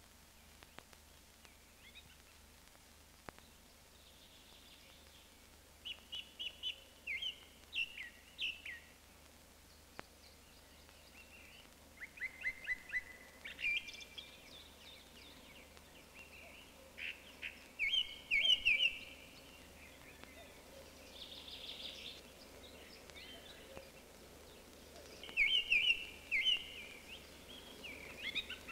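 A small songbird singing several short phrases of quick chirps and trills, with pauses of a few seconds between them, over a faint steady hiss.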